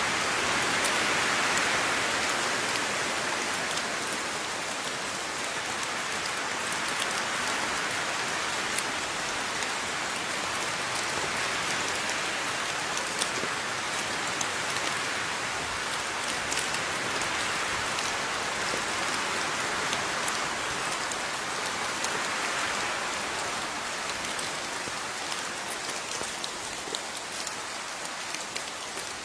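Steady rain falling, with scattered sharp drips of individual drops striking a surface over a dense hiss. The intensity swells and eases gently, a little lighter near the end.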